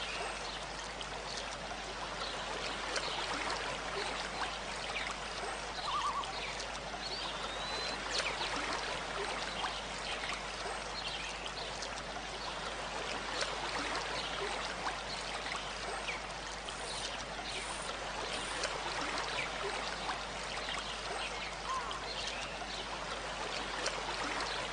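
Water trickling and splashing steadily, with a few faint, short bird calls now and then.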